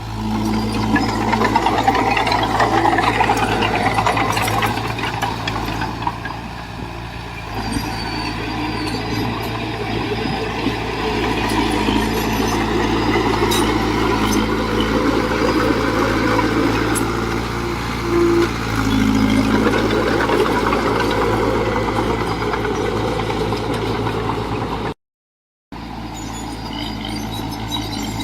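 Heavy diesel earthmoving machinery running under load: a steady engine drone that rises and falls in loudness. The sound drops out completely for under a second near the end.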